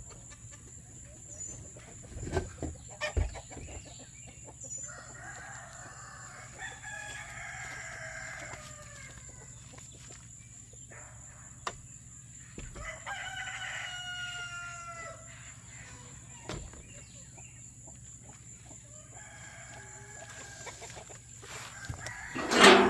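Roosters crowing, with two long drawn-out crows about five and thirteen seconds in, amid chicken clucking. A few sharp knocks and a sudden loud sound near the end.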